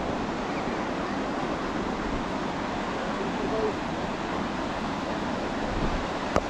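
Steady rush of sea surf with wind noise on the microphone, and faint voices of people in the background. A single sharp click near the end.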